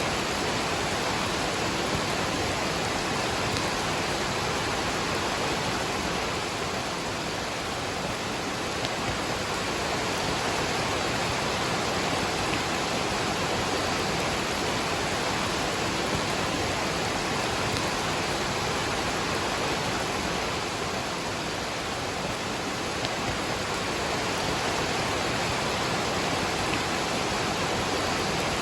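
Waterfall rushing steadily together with falling rain: an even, unbroken wash of water noise.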